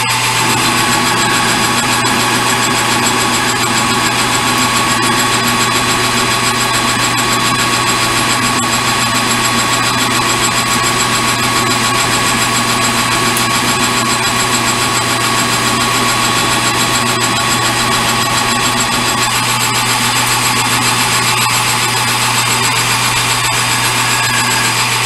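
Metal lathe running steadily with a constant hum, turning a 1-inch bar down toward half an inch.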